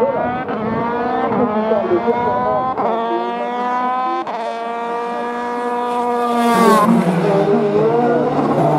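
Hill-climb race car engine accelerating hard, its pitch climbing and then dropping with quick upshifts about every one and a half seconds. The pitch then holds before falling sharply near the end as the driver lifts or shifts down.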